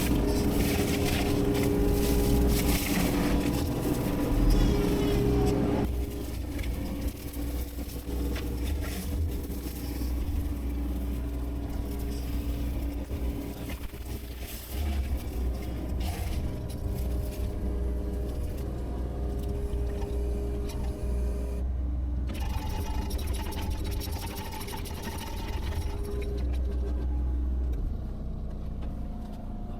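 Engine of a heavy land-clearing machine, such as an excavator, running steadily with a low rumble, growing duller about six seconds in.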